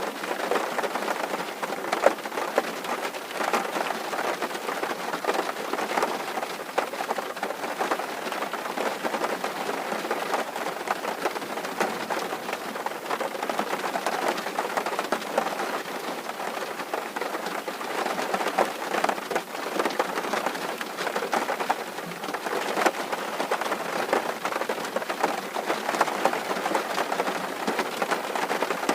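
Steady rain drumming on a tin roof: a dense patter of drops, with the odd louder single tick standing out.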